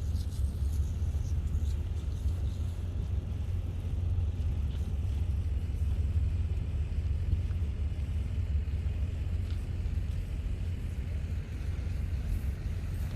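Steady low rumble of wind buffeting the microphone of a camera on a moving bicycle, rising and falling a little with the airflow.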